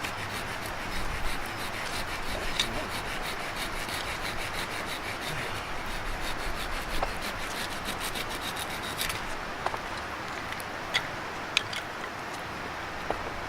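A knife blade scraping and shaving wood in quick repeated strokes for about nine seconds, then a few separate sharp clicks or taps.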